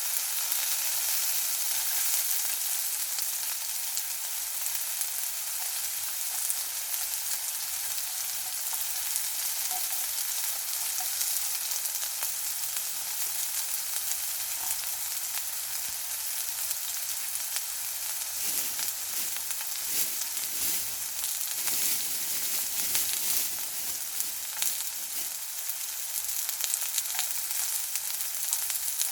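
Pork belly sizzling on a hot grill pan: a steady hiss with scattered small crackles and pops, much like the sound of rain.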